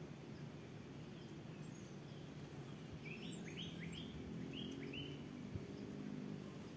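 A bird calling a run of about five quick rising notes partway through, over a steady low background hum.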